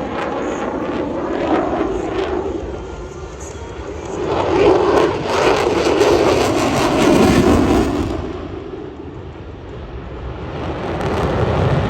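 F-22 Raptor's twin Pratt & Whitney F119 turbofan jet engines in a loud, rushing roar as the jet flies its display. The roar swells to its loudest in the middle, fades, then builds again near the end.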